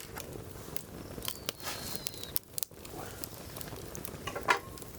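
Wood fire crackling in a firewood grill, with scattered irregular pops and one sharp pop near the end.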